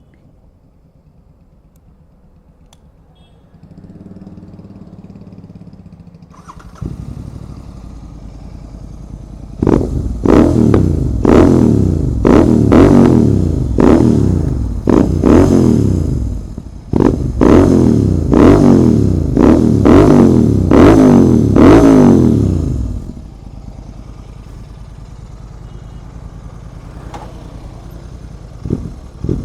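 Royal Enfield Continental GT 650's parallel-twin engine through a Red Rooster aftermarket exhaust: it begins idling about a quarter of the way in, is blipped about a dozen times in quick succession, each rev rising sharply and falling back, then settles to a steady idle.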